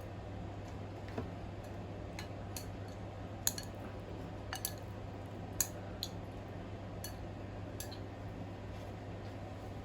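Light, irregular clicks and taps of cutlery against a bowl during eating, about nine in all, over a steady low hum.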